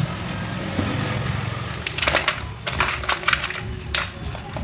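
A run of sharp metallic clicks and clatters, like small metal parts or tools being handled and set down, over a steady low hum.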